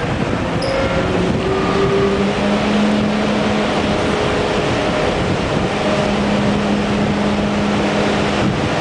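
A TGV high-speed train running, a steady rumble with a low held hum, mixed with heavy wind buffeting the microphone.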